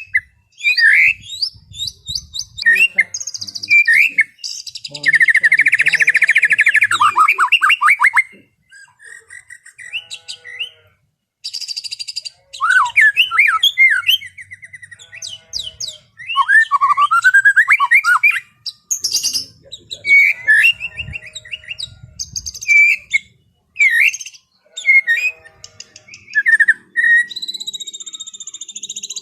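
White-rumped shama singing a varied, easy-flowing song of whistled phrases and chirps broken by short pauses, with a fast rattling run of notes about five seconds in and a long held high whistle near the end.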